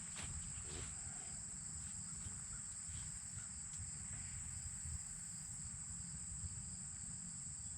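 Steady high-pitched insect chorus, like crickets trilling, over a low rumble on the microphone.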